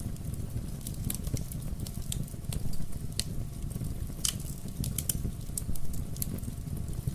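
Wood fire burning in a fireplace: a steady low rumble of the flames with irregular sharp crackles and pops, a few louder ones scattered through.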